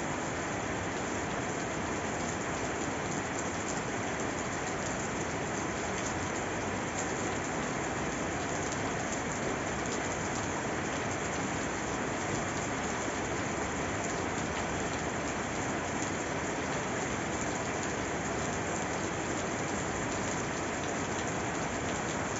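Steady rain falling and pattering on a surface, an even hiss without breaks or thunder.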